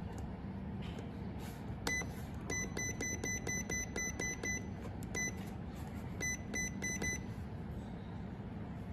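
Electronic beeps from a mini fridge's digital temperature-control panel: a single high beep, then a quick run of about ten at roughly five a second, another single beep, and a short run of four, as the setting is stepped. A low steady hum runs underneath.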